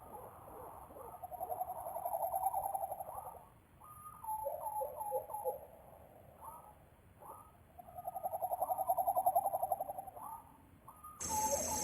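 Low bird calls: twice a rapid, pulsing trill about two seconds long, with short falling notes between. Near the end a steady high insect buzz starts suddenly under the calls.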